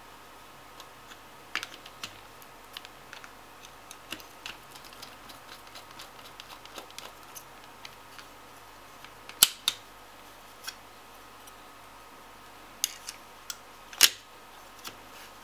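Scattered small clicks and taps of plastic and metal parts being handled as the fan is fitted back onto a Radeon HD 7850 graphics card, with two sharper, louder clicks, one about halfway through and one near the end.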